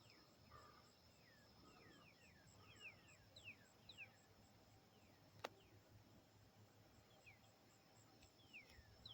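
Faint birds chirping: many short chirps, each sliding down in pitch, scattered through, over a faint steady high-pitched tone, with a single click about five and a half seconds in.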